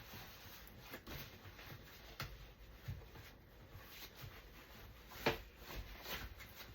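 Playard parts being handled during assembly: faint rubbing and scattered light knocks of plastic and fabric, with one sharper knock about five seconds in.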